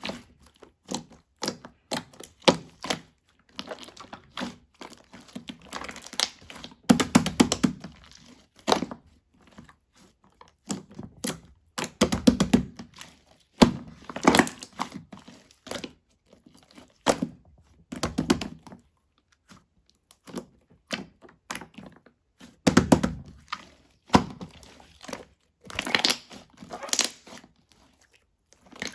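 Slime being squished and pressed by hand: irregular sticky clicks and pops, with denser bursts of crackling every few seconds.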